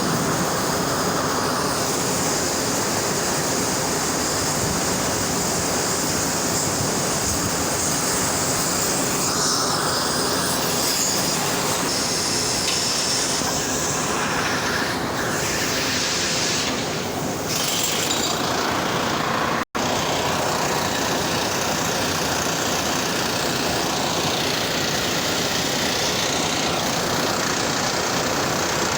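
Steady, loud industrial roar of blast furnace cast house machinery at taphole opening, dropping out for an instant about two-thirds of the way through.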